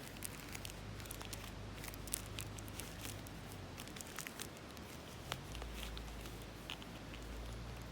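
Faint, scattered crinkling and clicking, like things being handled or rustled, over a low steady hum.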